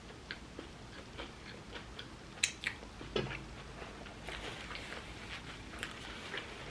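Close-miked chewing of a chickpea salad sandwich: soft, irregular wet mouth clicks and small crunches, with two sharper crunches about two and a half and three seconds in.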